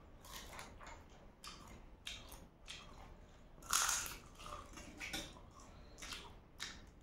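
People chewing and slurping spicy noodles: a run of short, faint mouth and eating noises, with one louder one about four seconds in.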